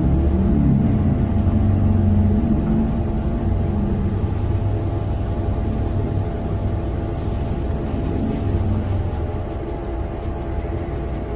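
Steady low rumble of a vehicle on the move, engine and road noise, with a faint steady hum above it.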